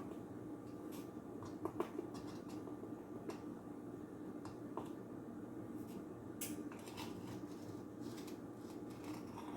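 Light clicks, taps and scrapes of a measuring spoon against containers while dry ingredients are measured, the sharpest taps about two seconds in, over a faint steady hum.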